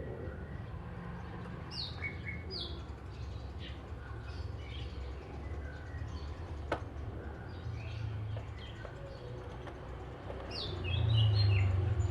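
Oriental magpie-robin singing short, scattered whistled and chirped notes, several sliding sharply downward. Underneath is a steady low traffic rumble that swells near the end as a vehicle passes.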